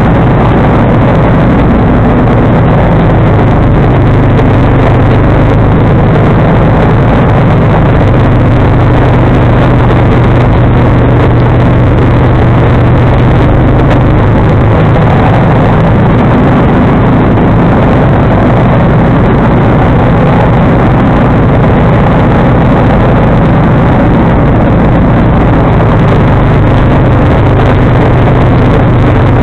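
John Deere 445 garden tractor's V-twin engine running steadily while driving a snowblower, a loud, even hum with no break.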